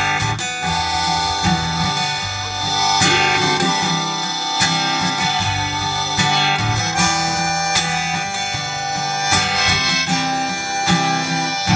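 Harmonica playing sustained melody notes over strummed acoustic guitar: an instrumental break between sung verses of a live folk-rock song.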